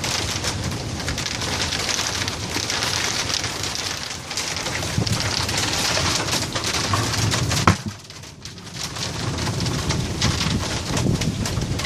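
Heavy summer-storm rain pouring down in a steady hiss. About two-thirds of the way in, a sharp click is followed by a second or so of much quieter sound before the rain noise returns.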